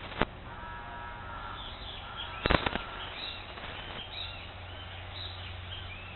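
Wild birds calling: a short held buzzy note, then repeated quick arching chirps through the rest. A sharp click near the start and a louder burst of knocks about two and a half seconds in break over it.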